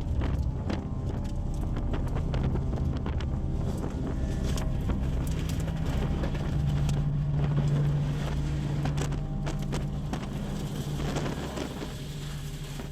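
A car driving fast, with a steady engine hum that grows louder in the middle, wind noise, and many sharp knocks and clicks throughout.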